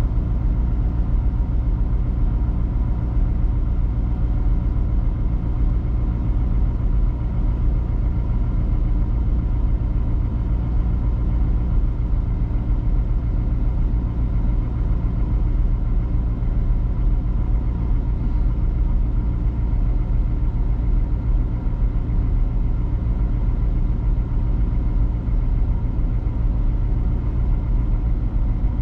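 1992 Chevrolet Corvette's LT1 5.7-litre V8 idling steadily shortly after a cold start.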